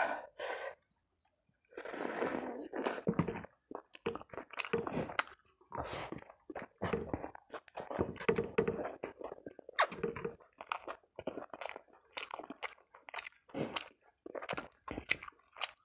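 Close-miked chewing of fried chicken and rice eaten by hand: an irregular run of short, wet mouth sounds and bites, with a brief pause about a second in.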